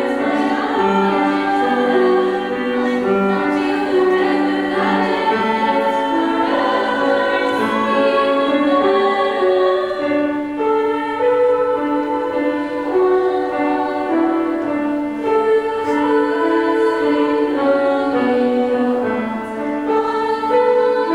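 A vocal group singing in harmony: several voices holding and moving between sustained notes together.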